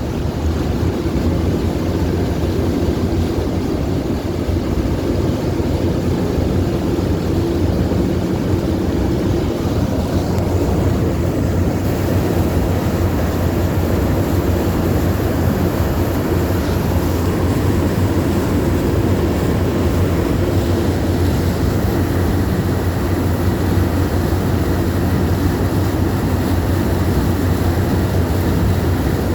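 Amphibious duck boat's engine running steadily as it cruises on the river: a constant low drone under a rushing haze.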